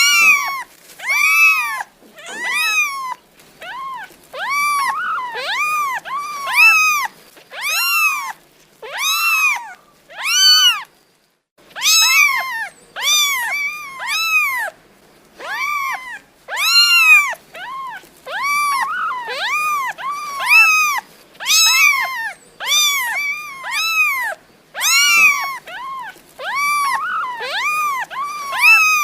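Domestic cat meowing over and over, short rising-and-falling meows in quick pairs and threes, with a brief silent break about a third of the way through.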